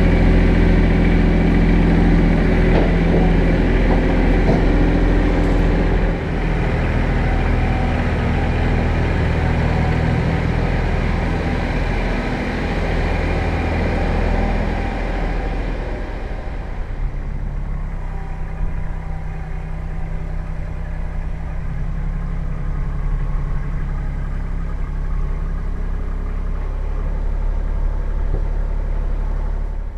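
Kubota L3800 tractor's three-cylinder diesel engine running steadily. It runs harder through the first half, then settles to a lower, quieter run about halfway through.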